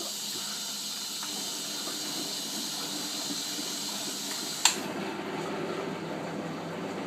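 Bendix 7128 washing machine running mid-cycle: a steady hiss of water flowing in, cut off by a sharp click about four and a half seconds in. After the click a lower, rougher running sound from the machine carries on.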